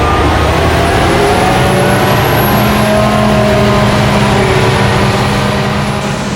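Heavy farm machinery's diesel engine running steadily, with a thin high whine above it.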